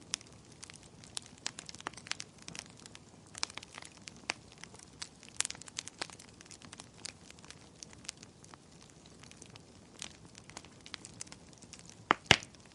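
Wood fire crackling in a fireplace: a steady scatter of small irregular snaps and pops, with two louder pops near the end.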